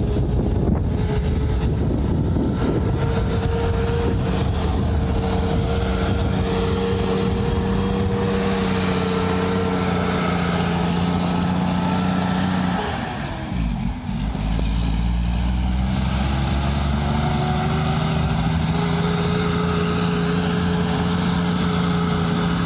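Mack Granite concrete mixer truck's diesel engine running steadily. About two-thirds of the way through, its pitch drops sharply and briefly, then climbs back slowly.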